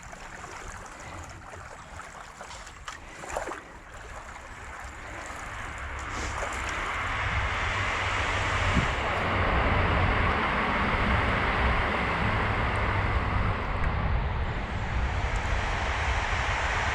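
A few kayak paddle splashes in canal water. From about six seconds in, a steady rushing noise with a low rumble swells up and holds: wind buffeting the action camera's microphone.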